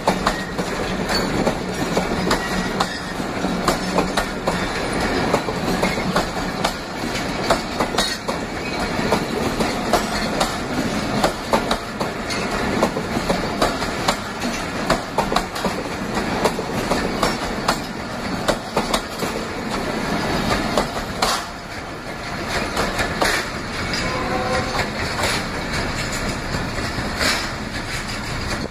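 Pakistan Railways passenger coaches rolling past close by, their wheels running over the rails in a continuous clickety-clack of closely spaced clicks.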